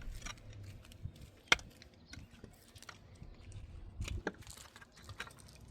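Scattered sharp clicks and knocks, the loudest about a second and a half in and another about four seconds in, over a faint low background noise.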